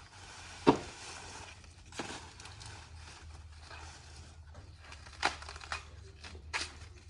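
Dry corn leaves and husks rustling and crackling as the plants are handled during the harvest, broken by about five sharp snaps, the loudest about a second in.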